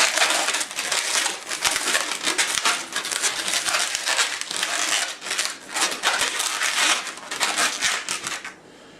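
Inflated latex modelling balloon being handled and twisted, its rubber rubbing and crinkling in a dense run of small scrapes as a bubble is locked into a pinch twist; it dies down near the end.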